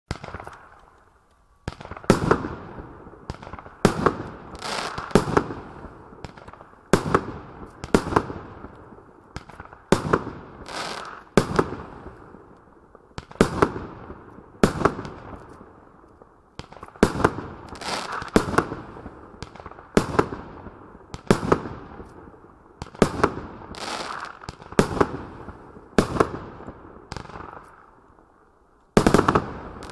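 Decibel 19-shot single-ignition firework barrage cake firing its shots in sequence off one fuse. It gives sharp bangs about one every second or so, each trailing off, with a loud burst near the end.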